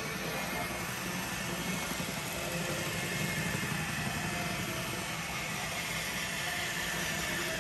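A small engine or motor running steadily.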